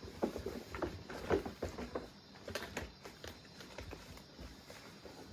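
Cats scampering and playing on a hard floor: quick, irregular soft taps and thumps of paws and bodies, busiest in the first two seconds.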